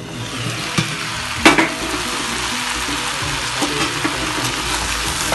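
Chicken pieces and onions frying in oil in a pan: a steady sizzle that builds up within the first second, with a sharp knock against the pan about one and a half seconds in and a lighter one just before.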